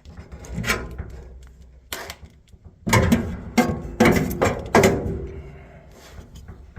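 A string of sharp clattering knocks with rubbing and scraping between them, thickest in the middle, from handling inside an open clothes dryer cabinet.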